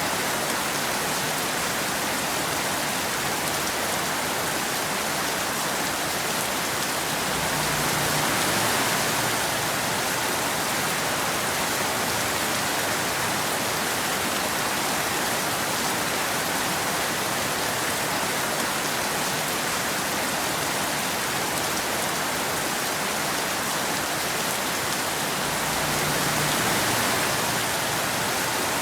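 Steady rain falling on a road, an even hiss that swells slightly about eight seconds in and again near the end.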